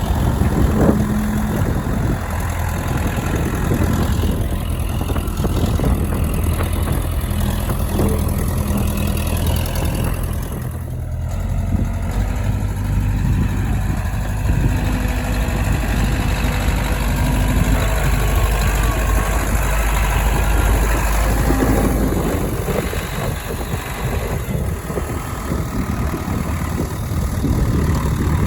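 An engine running steadily, easing off somewhat in the last few seconds.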